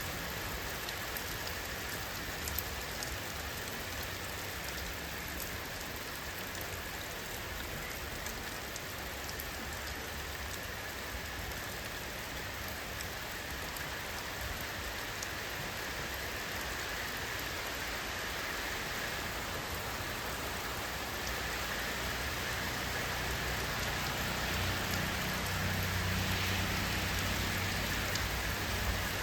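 Steady rain falling, a dense patter of drops. A low rumble swells in the last few seconds.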